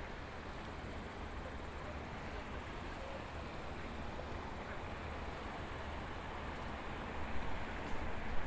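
Steady outdoor background noise with a low hum underneath; a few louder, irregular sounds come in near the end.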